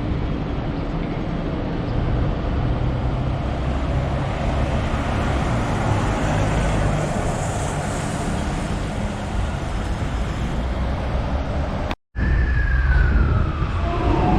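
Hong Kong tram running, a steady low rumble and rattle heard from on board. After a brief break about twelve seconds in, a high tone slides steadily down in pitch over about two seconds.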